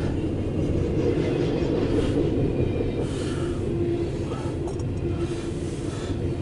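CSX intermodal freight train rolling past, a steady rumble of its cars' wheels on the rails, heard from inside a car.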